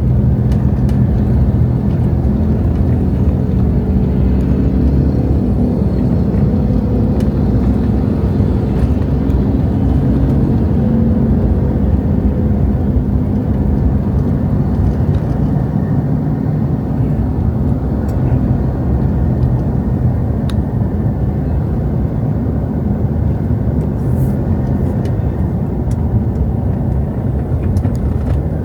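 A motor vehicle's engine running steadily while driving, with road noise. The engine pitch eases down at the start, then holds steady.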